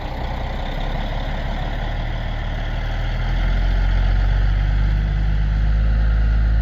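Heavy delivery truck's engine running steadily while a load of firewood is unloaded, growing louder a little past halfway.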